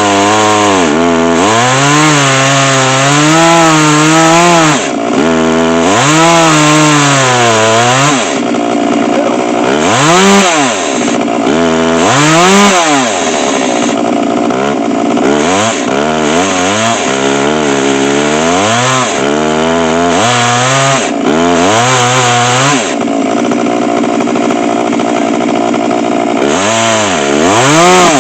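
Chainsaw on an Alaskan chainsaw mill ripping a log lengthwise, the engine running loud and its pitch rising and falling every second or two as it bogs and picks up in the cut. The cut goes slowly on an ordinary chain that needs sharpening rather than a ripping chain.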